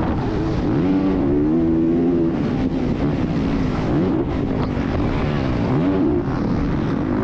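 Dirt bike engine revving as it is ridden, its pitch climbing and dropping back again and again with the throttle, over a heavy rumble.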